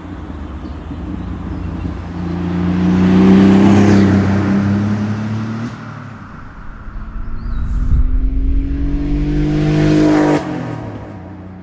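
Porsche 930 Turbo's air-cooled turbocharged flat-six accelerating hard, its note rising in pitch, falling away just under halfway through, then rising again. It cuts off abruptly as the throttle closes near the end, then dies away.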